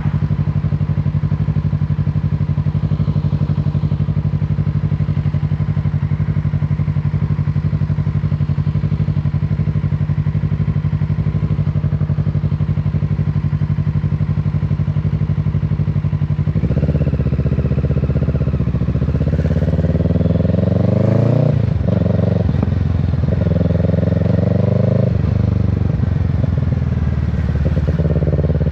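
Kawasaki Z650's parallel-twin engine running at a steady, even pitch. About sixteen seconds in it pulls harder, and the revs climb and drop repeatedly as it accelerates and shifts.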